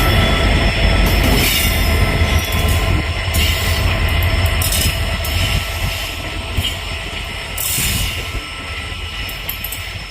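ICF passenger coaches of a diesel-hauled train rolling past on the track: a loud, steady rumble that slowly fades, with a thin, high wheel squeal and a few short clattering rushes.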